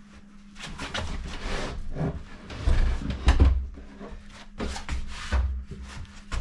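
Heavy unfinished plywood cabinet being shoved and scraped into place, wood rubbing and knocking, with the loudest heavy thumps about three seconds in and again near the five-second mark. The cabinet is snagging, which he thinks is on the back of the toe kicks.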